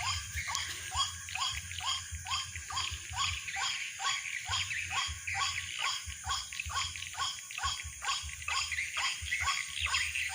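White-breasted waterhen calls repeated without pause, about two and a half a second, each a short falling note, over a low steady hum.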